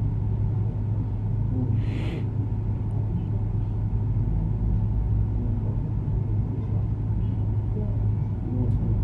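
Steady low hum through the prayer hall's open microphone, with faint indistinct murmuring and a brief rustle about two seconds in.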